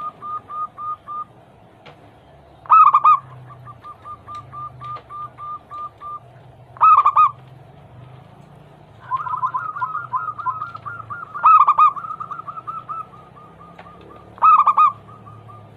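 Zebra doves (perkutut) singing their anggungan song: a loud cooing phrase about every three to four seconds, five in all, each followed by a run of quick, short, evenly spaced notes. From about nine seconds in, the short notes of more than one bird overlap. A low steady hum sits underneath throughout.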